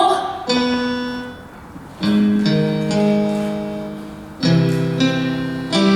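Piano playing slow sustained chords, each struck and left to ring and fade before the next, about five in all: the introduction to a song.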